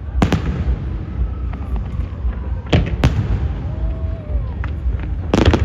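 Aerial fireworks shell bursts: a sharp bang, two more close together about halfway through, and a cluster of bangs near the end, with fainter pops between them over a steady low rumble.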